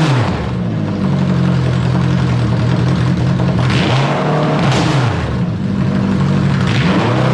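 Motorcycle engine fitted in a car being revved hard and very loud. The pitch drops back at the start, holds at a fast idle, climbs and falls again about four seconds in, and rises once more near the end.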